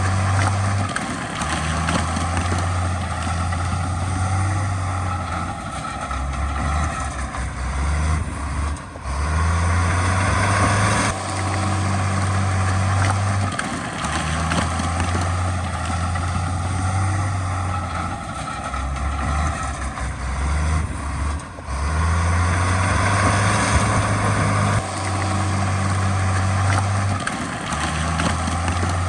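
Heavy diesel earthmoving equipment running steadily, its low engine note stepping between two pitches every few seconds.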